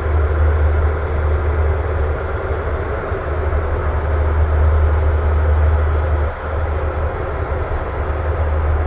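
Boeing 777-200ER cabin noise in flight: a steady low rumble with airflow hiss.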